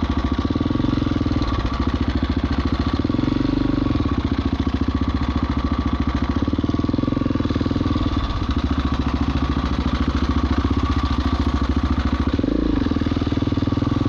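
Husqvarna 701 Enduro's big single-cylinder engine running as the motorcycle is ridden, with its engine note rising and falling several times as the throttle is worked, most clearly near the end.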